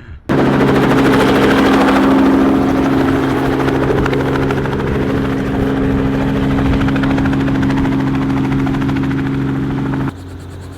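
Helicopter running close by: a loud, steady drone of engine and rotor with a fast, even blade beat. It starts abruptly and drops away sharply near the end.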